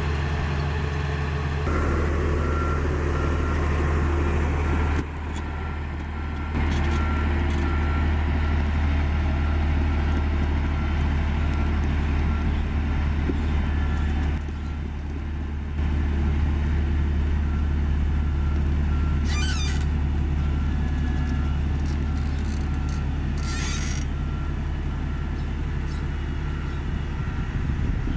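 Komatsu GD555 motor grader's diesel engine running steadily at working load, with a reversing alarm beeping evenly from a couple of seconds in. The engine sound drops twice for a second or so, and two short high squeals come about two-thirds of the way through.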